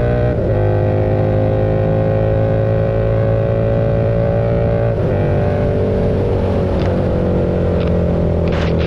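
KTM 1290 Super Duke's V-twin engine running steadily on the move, its pitch drifting gently up and down. The note briefly breaks about half a second in and again about five seconds in.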